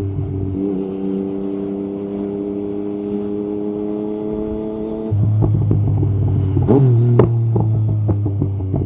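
Yamaha MT-09 SP three-cylinder engine through an Akrapovic carbon exhaust with the dB killer out, pulling steadily with its pitch slowly rising. About five seconds in, the note drops abruptly to a deeper, louder one, and the exhaust gives a string of sharp pops and crackles.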